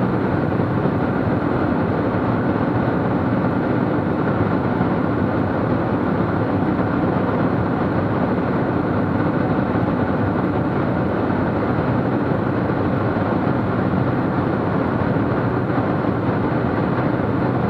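Steady drone of a Cessna T210's turbocharged six-cylinder engine and propeller in flight, heard from inside the cabin, with no change in pitch or level.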